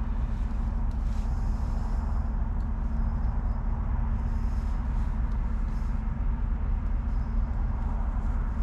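Steady low rumble with a constant low hum from a running engine.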